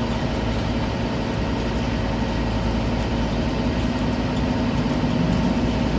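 Scania CN230UB OmniCity single-deck bus heard from inside the cabin while driving: a steady diesel engine drone with low road rumble and a few faint steady tones.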